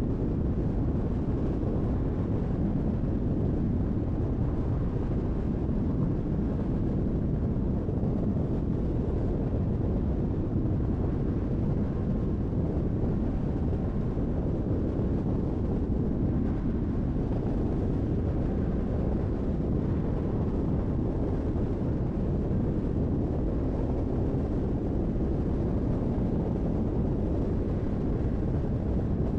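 Steady road noise of a car driving on a highway: an even low rumble of tyres and wind with no distinct events.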